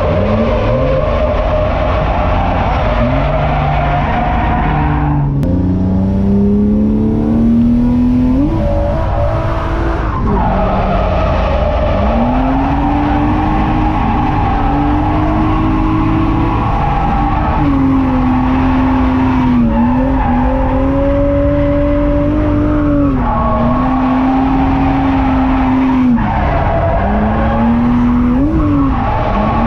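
BMW M50B25 non-VANOS 2.5-litre straight-six in a drifting BMW E30, heard onboard, revving hard with the revs repeatedly dropping and climbing back as the throttle is worked, and tyres squealing under the slide.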